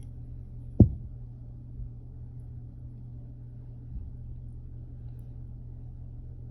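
A single dull thump about a second in, with a couple of fainter bumps later, over a steady low hum: handling noise.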